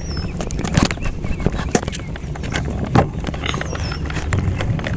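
Riding a bicycle: a steady low rumble of wind and tyres with irregular clicks and rattles from the bike. Two short high chirps sound, one at the start and one about three and a half seconds in.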